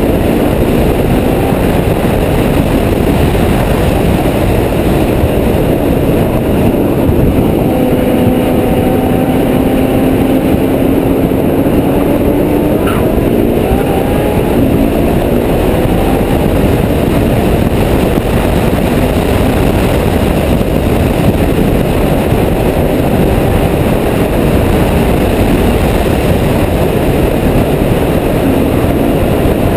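Ferrari F12berlinetta's V12 engine running hard at speed, its pitch gliding up and down with the throttle and gear changes, half buried under heavy wind noise on the microphone.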